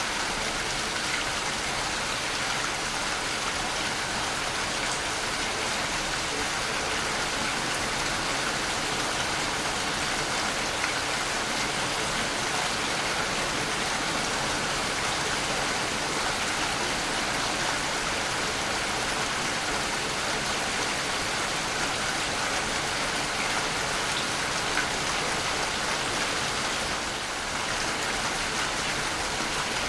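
Waterfall: falling water splashing and rushing in a steady, dense hiss, with a brief slight dip near the end.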